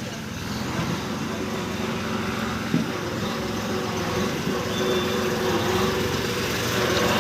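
Kubota B2441 compact tractor's diesel engine running steadily and growing gradually louder, with a single short knock about three seconds in.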